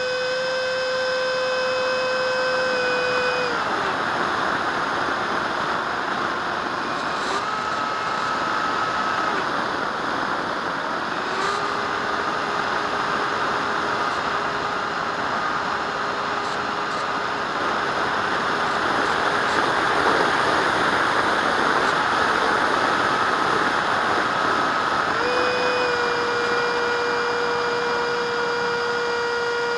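Electric ducted fan of a radio-control jet whining over a rushing blast of air, its pitch stepping down and back up several times as the throttle changes.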